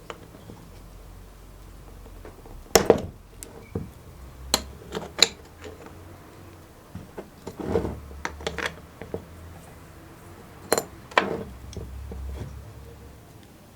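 Small metal parts and tools clinking and knocking on a hard surface: a string of sharp knocks, some ringing briefly, the loudest about three seconds in and again near eleven seconds.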